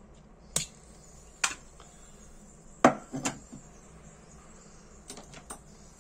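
Six or so sharp metallic clicks and clinks, the loudest about three seconds in, from handling a Dupont Ligne 2 lighter and a butane refill as the repaired gas cap is tested with gas.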